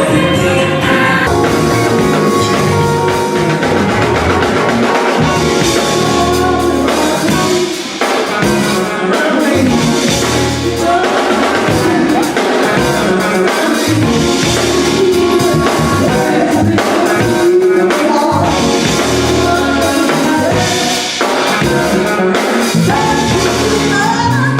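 Band music with a singer, drum kit and bass playing continuously.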